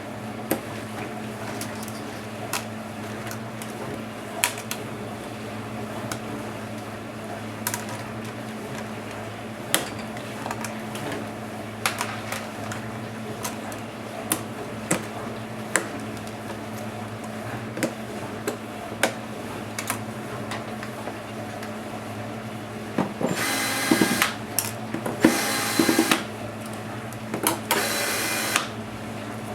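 Light clicks and taps of small laptop parts and tools being handled, over a steady low hum. Near the end, three short whirs of about a second each from a small electric screwdriver backing out screws during the disassembly of a Dell Inspiron 1525 laptop.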